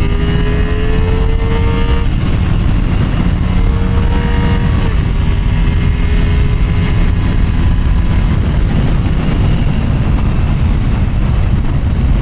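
Motorcycle engine accelerating hard at highway speed. Its pitch climbs and drops at upshifts about 2 seconds and 5 seconds in, then settles to a steady cruise. Heavy wind rumble on the rider's microphone runs underneath.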